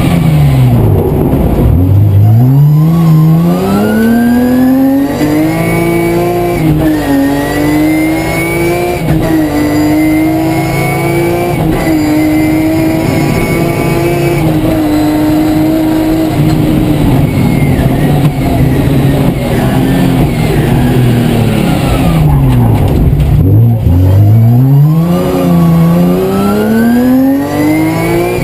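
BMW E36 M3's straight-six engine heard from inside the car: it slows for a turn, then pulls hard up through the gears, its pitch climbing and dropping back at each shift. Midway it eases off, slows low again about two-thirds through, and accelerates back up through the gears near the end.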